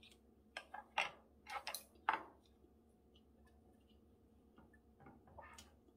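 Close-up eating sounds: short wet clicks and smacks from chewing a mouthful of rice, a cluster in the first two seconds with the loudest about a second and two seconds in, then a few fainter clicks about five seconds in.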